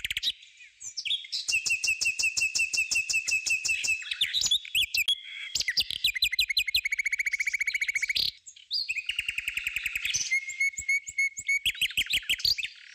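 Birds chirping and trilling in fast runs of repeated high notes, with a few held whistled tones, breaking off abruptly near the start and again about eight seconds in.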